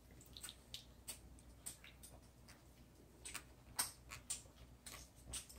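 Faint, irregular soft clicks and wet smacks of a person chewing a big mouthful of sandwich with her mouth closed, the loudest about four seconds in.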